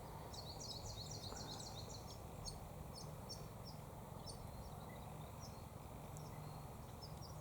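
Faint high-pitched chirps of small birds: a quick run of short notes in the first couple of seconds, then scattered single chirps, over a steady low background hum.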